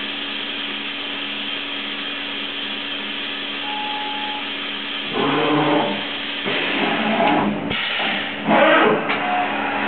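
Sharp SV-2412 CNC vertical machining center starting its cutting cycle: a steady machine hum and hiss, then from about five seconds in, loud irregular bursts of noise come and go.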